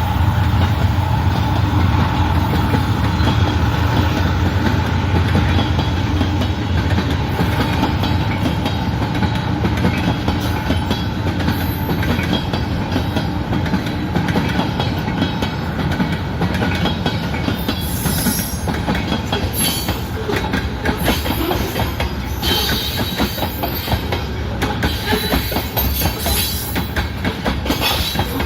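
Freight cars of a CN mixed-freight manifest train rolling past, the steel wheels clicking over rail joints, with a steady wheel squeal in the first several seconds.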